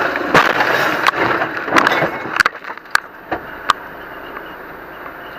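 Road crash as heard in a vehicle: a string of bangs, clatter and scraping that comes quickly at first and thins out and fades over the first three or four seconds, then a steady lower noise of road or engine.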